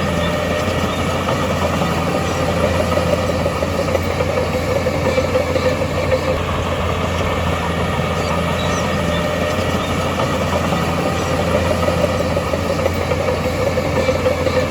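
Diesel engine of heavy earthmoving machinery running steadily, with a constant low drone.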